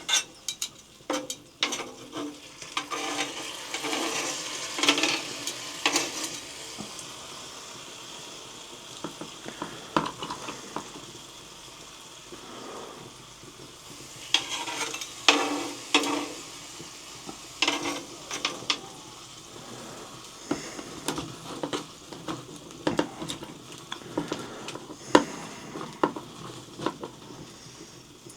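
Pieces of meat being laid on a grill grate over hot embers and sizzling, with repeated clicks and clatters of metal against the grate.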